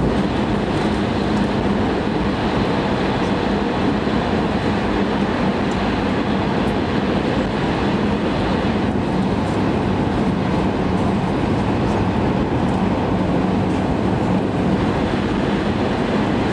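Cabin noise inside a Shinkansen bullet train running at high speed: a steady rushing rumble of wheels on rail and air on the body, with a constant low hum.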